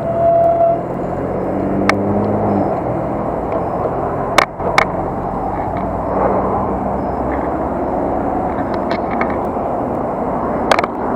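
Steady road and wind noise from a bicycle ride along a street at night, with a vehicle engine humming for the first couple of seconds. A few sharp knocks cut through: two close together near the middle and two more near the end.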